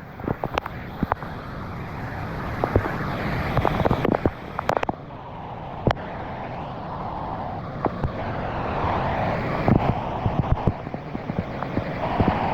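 Pressure washer running and spraying: a steady rushing noise, slowly getting louder, with many sharp cracks and pops.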